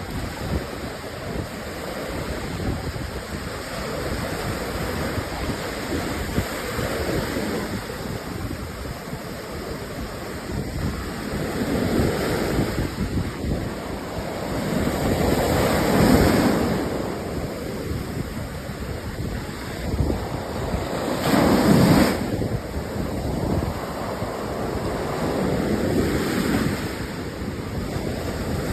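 Ocean surf breaking and washing up a beach, swelling and ebbing every few seconds, with wind buffeting the microphone. The loudest breakers come about 16 and 22 seconds in.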